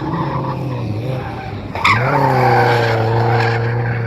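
Drift car sliding through a corner: about two seconds in its engine jumps up in revs and holds high and steady while the tyres squeal.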